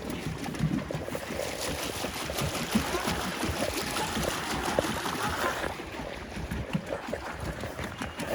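Pedal boat's paddle wheel churning and splashing water in a steady wash, with a few light knocks.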